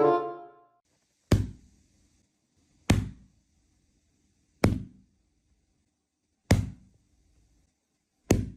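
Five sharp knocks, evenly spaced at just under two seconds apart, each short with a quick decay.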